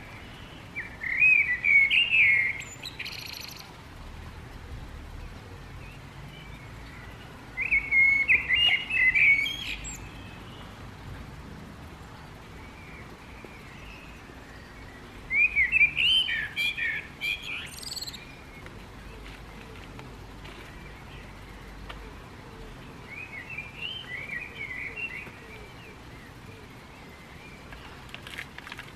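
A songbird singing four short warbled phrases several seconds apart, each ending in a few high squeaky notes.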